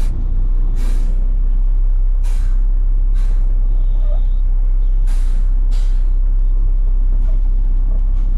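Front-load garbage truck's diesel engine running with a steady low rumble, cut by several short hisses of compressed air from its air brakes.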